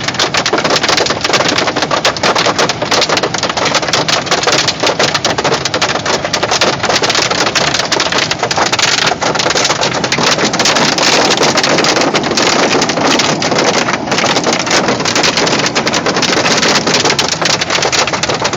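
Large hailstones pelting a car's body, heard from inside the cabin: a dense, continuous clatter of countless impacts.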